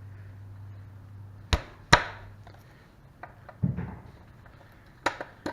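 Sharp clicks and knocks of a motorcycle axle slider puck being handled and fitted onto its slider rod: two clicks about a second and a half in, a dull thump near four seconds, and two more clicks near the end.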